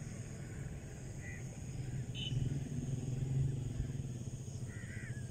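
A motor vehicle's engine running, a steady low rumble that grows a little louder mid-way. A few faint, short bird chirps are heard over it.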